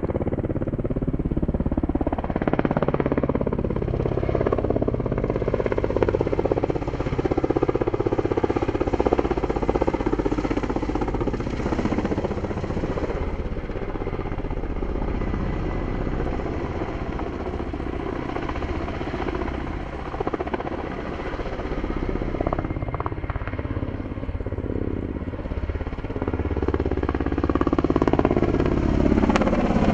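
Helicopters flying past, turbine whine and rotor noise running continuously, the pitch sliding down as each aircraft passes; loudest near the end.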